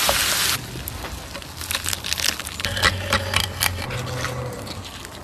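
Campfire crackling and snapping in a quick, irregular scatter of sharp pops. A loud hiss cuts off suddenly about half a second in.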